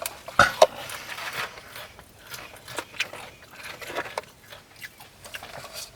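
Close-up eating sounds: soft chewing and sipping of an ice-cream milkshake through a straw, with scattered small clicks and taps from the cup and straw, the sharpest about half a second in.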